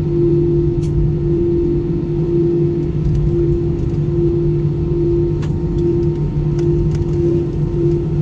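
Airbus A320 cabin noise: a steady low rumble with an even, droning hum, and a few faint ticks on top.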